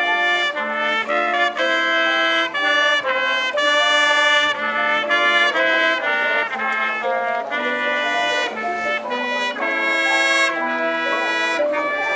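Marching band brass section playing a loud melody in full chords, the notes changing about twice a second.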